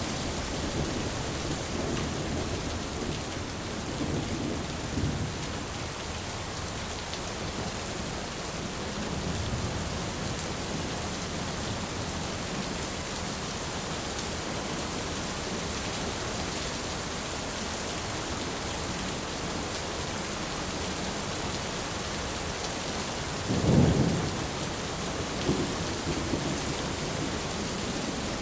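Steady heavy rain with rolling thunder: low rumbles in the first ten seconds, and a sharper, louder thunderclap about 24 seconds in.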